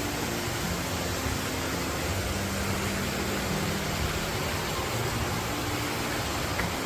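Steady rush of water in a rocky mountain valley stream, an even hiss.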